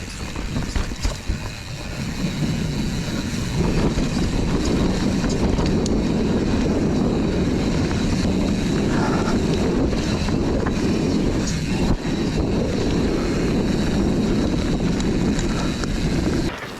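Wind rushing over the camera microphone, with a mountain bike's tyres rolling and its frame rattling over a dirt and root trail on a fast descent. There are a few sharp knocks in the first couple of seconds, and the noise falls away suddenly near the end.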